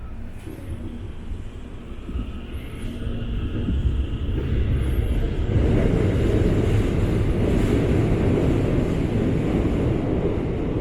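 Tokyu Den-en-toshi Line electric commuter train heard from inside the carriage: a steady rumble of wheels and running gear that grows louder through the first half and stays loud from about six seconds in, as the train goes out over the Tama River bridge.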